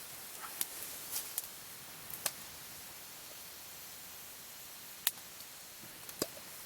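Campfire crackling: a few sharp, separate pops scattered over a steady hiss, the loudest about five seconds in.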